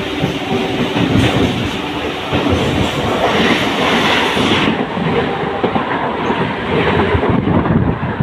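Mumbai suburban local train running, its wheels clattering over rail joints with a steady rumble.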